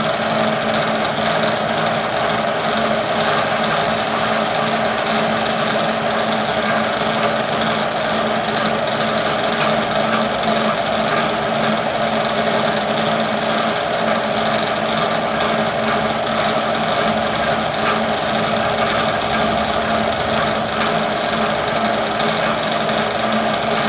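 Vertical milling machine running steadily with an even hum, its spindle turning.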